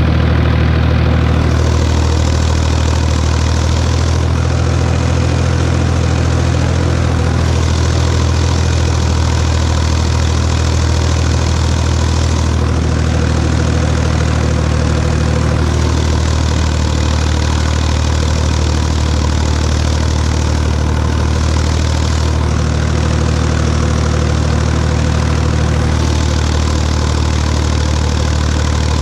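Tractor diesel engine running steadily at constant speed, pulling a cultivator through the field.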